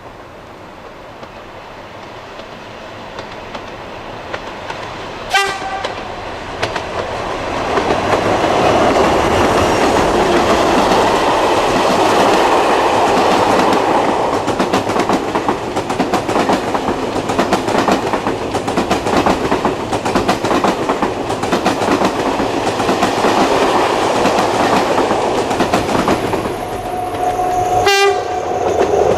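A diesel-hauled passenger train approaching and passing at length, growing from faint to loud over the first several seconds, with the clickety-clack of its wheels over rail joints. A brief sharp sound comes about five seconds in and again near the end.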